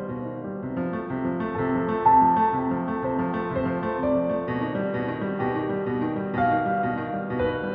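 Slow piano music, notes and chords held and overlapping, changing about every half second.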